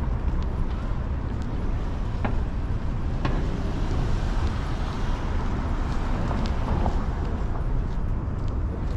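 Steady city street traffic noise, with a few light clicks.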